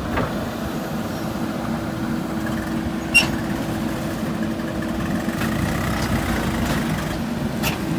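Heavy earthmoving machine's diesel engine running steadily, with a single sharp metallic clink about three seconds in.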